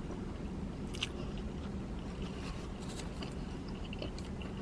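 Close-up chewing of a breaded chicken tender sandwich, with scattered wet mouth clicks and smacks, over a steady low hum.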